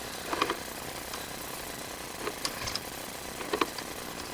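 Drain inspection camera being pushed along a sewer pipe: a few short knocks and clicks over a steady hiss.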